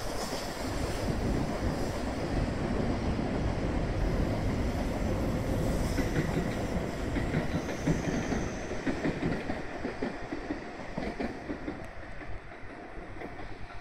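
Hokuriku Shinkansen E7/W7-series train running into the station at low speed, its wheels on the rails making a steady low rumble with some clickety-clack.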